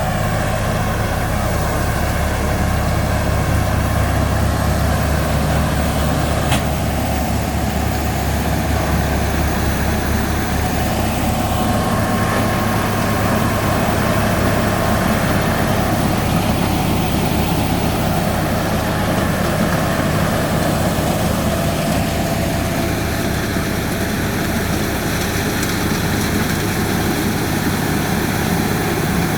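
Heavy diesel engine of road-repair machinery running steadily with a low hum; its deepest rumble drops away about five seconds in.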